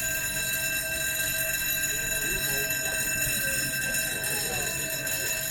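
Movable bridge's warning alarm sounding one steady, unbroken high ringing tone while the barrier is down and the bridge is closed to traffic. Faint voices can be heard underneath.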